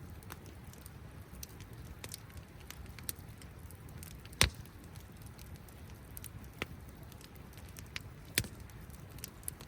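Campfire crackling, with sharp pops at irregular intervals, the loudest about four and a half seconds in, over a low steady rumble.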